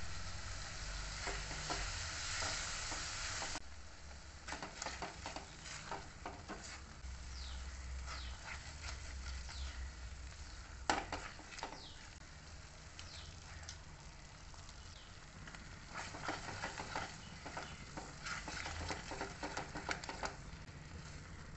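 Masala paste sizzling in a metal kadai as a little water is poured in, the strong sizzle dropping away after about three and a half seconds. Then a silicone spatula stirs and scrapes the thickening masala around the pan over a low sizzle, with a sharp knock about 11 seconds in, as the masala is sautéed until the oil separates.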